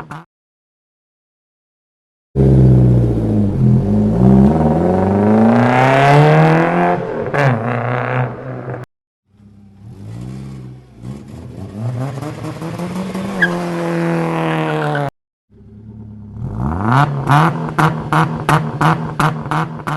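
Engine revving in three short clips, its pitch climbing and falling, each starting and stopping abruptly at a cut. The last clip has a regular pulsing beat of about five a second.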